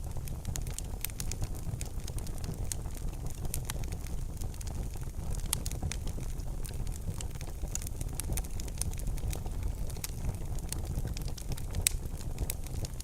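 Wood fire burning in a fireplace: a steady low rumble with frequent sharp crackles and pops, one louder pop near the end.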